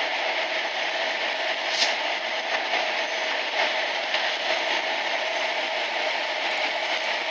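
Train running steadily at speed through a rail tunnel: a constant noise of wheels on the rails and running gear, enclosed by the tunnel walls, with a brief high-pitched sound about two seconds in.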